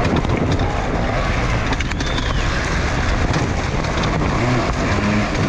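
Enduro dirt bike engine running under throttle, with wind buffeting the microphone; near the end the engine note rises and wavers as the throttle is worked.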